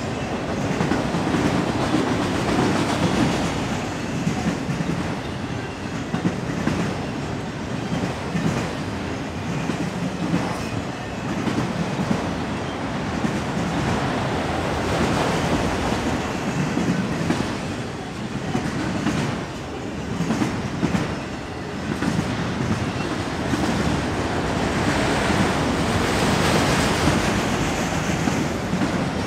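A freight train of autorack cars passing close by: a steady rumble and rattle of the cars with repeated wheel clicks.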